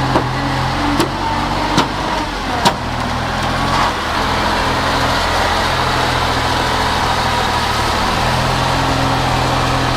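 Heavy truck engine running steadily, with four sharp knocks or clanks in the first three seconds.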